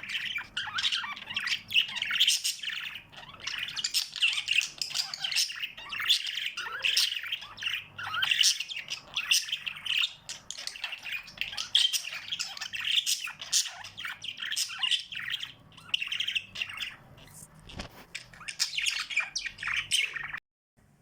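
A group of small pet birds chirping in a busy, continuous stream of short overlapping calls, which cuts off abruptly near the end.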